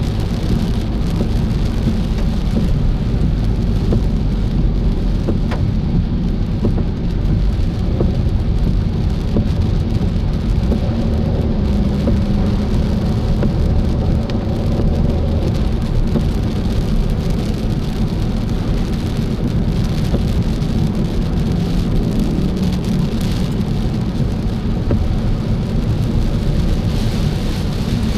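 A car driving in the rain: a steady low rumble of road and engine noise with rain on the car, and the odd faint tick of drops.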